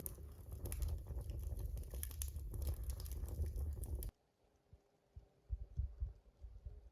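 Dense crackling and clicking over a low rumble, cutting off abruptly about four seconds in; after that only a few faint low thumps.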